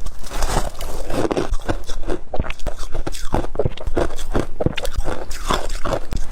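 Shaved ice being bitten and chewed: a quick, irregular run of close crunches, several a second.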